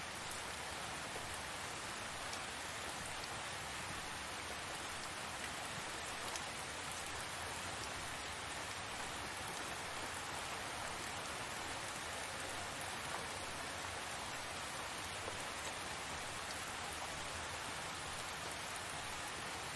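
Tropical rain falling steadily: an even hiss with a few faint drop ticks scattered through it.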